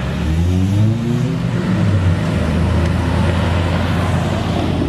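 A sports car's engine and exhaust rev up briefly twice in the first couple of seconds, then run at a steady low note.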